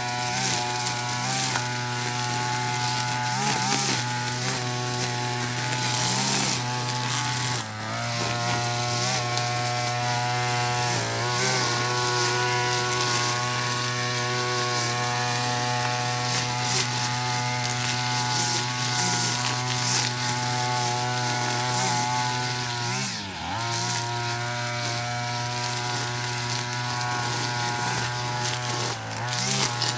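Backpack brush cutter with a flexible shaft and nylon trimmer line, its small petrol engine running at a high, steady speed. It dips briefly and comes back up twice, about a third of the way in and again near the three-quarter mark.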